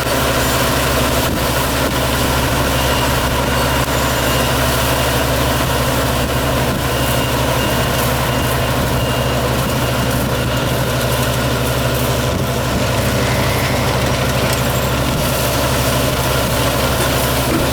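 Engine of a Yanmar combine harvester running steadily, a constant low drone.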